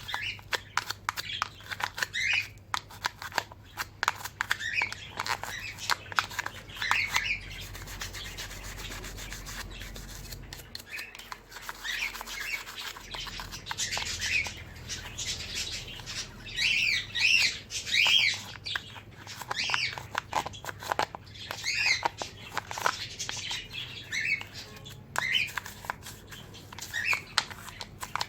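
A toothbrush scrubbing bird water drinkers in rapid back-and-forth strokes, with cage birds chirping repeatedly.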